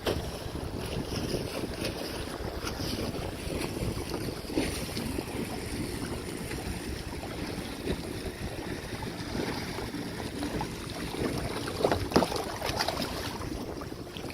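Wind buffeting the microphone over the sound of moving water, with a few louder splashes or knocks about twelve seconds in.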